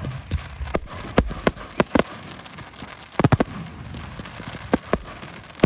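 Aerial firework shells bursting: a run of irregular sharp bangs and cracks, with a quick cluster of them about three seconds in.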